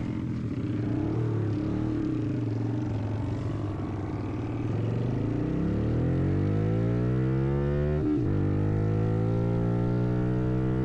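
Honda Grom minibike's single-cylinder engine running at a steady low note, then revving up over a couple of seconds about halfway through. There is a short break in the note about eight seconds in, after which it holds steady at higher revs.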